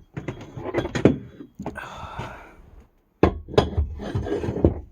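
A boat seat being fitted into place: a run of knocks and clunks, with a scraping rub about two seconds in.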